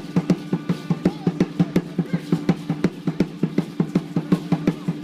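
Drum music playing for a street dance: a fast, even drum beat of about five strokes a second over a steady low drone.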